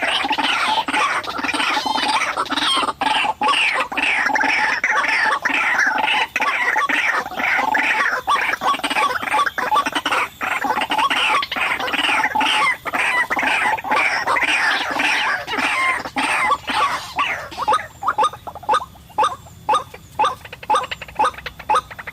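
White-breasted waterhens calling over and over in a dense, overlapping chorus. After about 17 seconds it thins into a steady series of separate call notes, a few per second.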